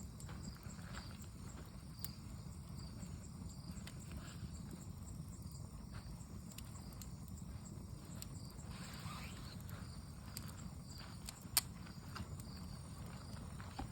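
Wood bonfire burning with a low steady rumble and scattered small crackles from the burning wood, with one sharp pop about three quarters of the way through. Insects chirp faintly in a steady pulse.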